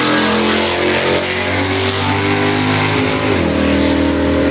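Camaro's engine at full throttle on a drag run. It holds a steady note, then climbs in pitch about three seconds in.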